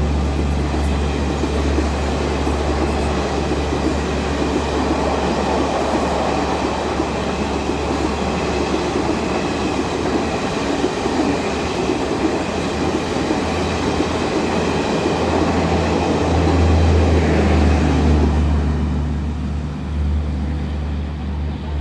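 Mumbai suburban electric local train running, a steady low rumble with a faint whine above it.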